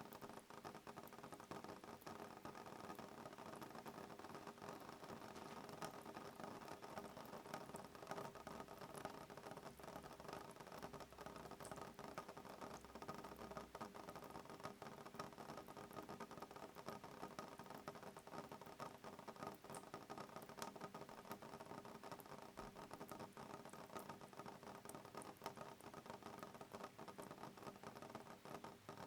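Soft rain on a window: a quiet, steady scatter of small drop ticks over a faint hiss, with no thunder.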